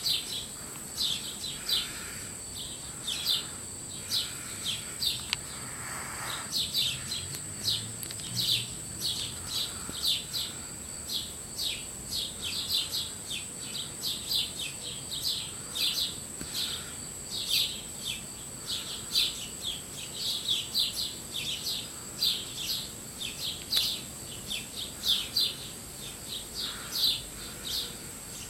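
A small bird chirping over and over, short high peeps several times a second, with a steady high-pitched whine behind it.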